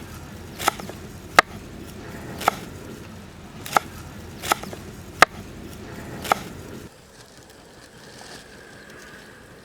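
Kitchen knife chopping on a cutting board: about eight sharp, ringing strikes at uneven intervals, stopping about six and a half seconds in.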